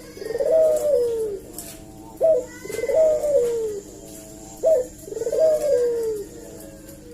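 Barbary dove (burung puter) cooing repeatedly. Each call is a short, sharp rising note followed by a long coo that falls in pitch, about every two seconds, three times.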